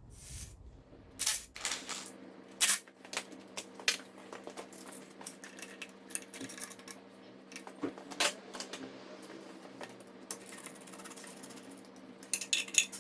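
Scattered sharp metallic clinks and taps of hand tools and loose nuts or bolts being handled and set down while the exhaust manifold is unbolted from the engine, with a quick run of clicks near the end. A faint steady hum runs underneath.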